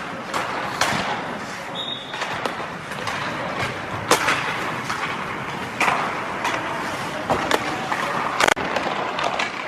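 Ice hockey warmup on the rink: skates scraping the ice and sticks and pucks clacking, with sharp cracks of pucks striking the boards at irregular moments, the loudest about four seconds in and near the end, over a steady arena hum.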